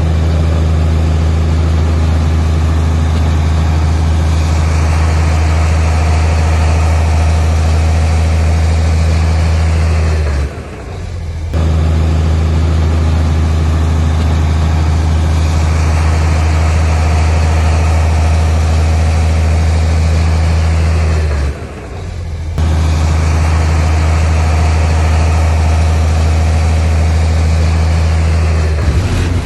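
Heavy diesel engine of earthmoving machinery running at a steady, unchanging speed with a deep, low hum. It dips out briefly twice, about ten and twenty-one seconds in, then resumes at the same pitch.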